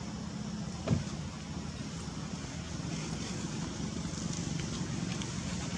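Steady low hum of an engine running, with one brief thump about a second in.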